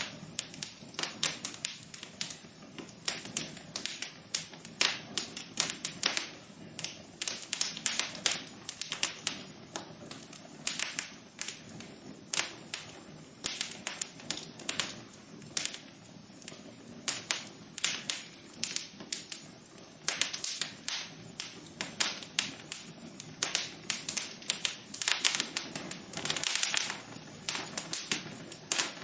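Wood fire crackling in a fireplace: a steady stream of irregular sharp pops and snaps over a soft hiss of burning.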